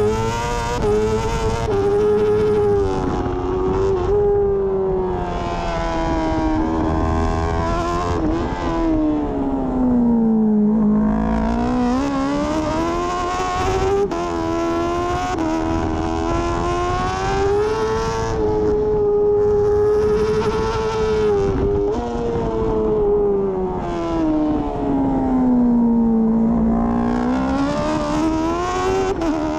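BMW S1000RR superbike's inline-four engine at racing speed, its revs climbing through the gears and falling away under braking, sinking to its lowest twice, near the middle and near the end, before pulling hard again.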